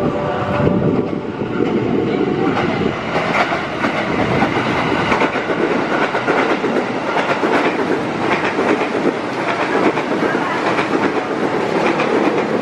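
Ex-JR East 205 series electric commuter train passing close beneath, its wheels clattering over the rail joints in a continuous run of clicks over steady running noise.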